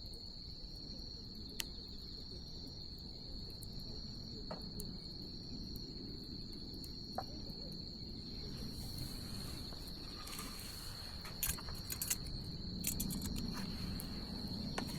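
Bonfire burning with a low steady rumble and sharp crackles and pops now and then, coming more often in the last few seconds. A steady high-pitched insect trill runs underneath.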